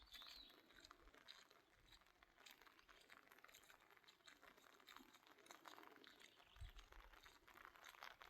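Near silence, with faint scattered crackling.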